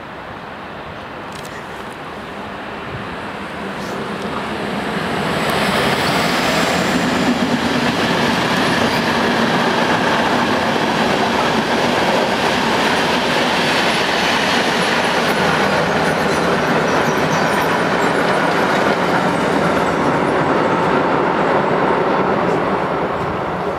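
Freight train passing close by on the rails: the noise of its wheels on the track builds over the first six seconds, holds steady and loud, and drops away near the end as the last wagons go by.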